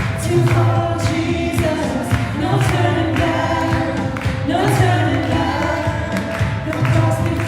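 Worship song: several voices singing a melody over a band with steady drums and bass.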